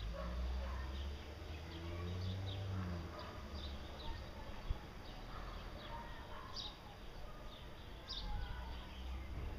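Small birds chirping now and then in the background, in short high notes, the clearest about two-thirds of the way through and again near the end, over a steady low rumble.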